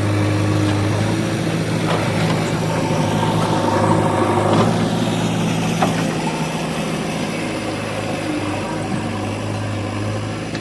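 Heavy vehicle engine running steadily at an even, low speed.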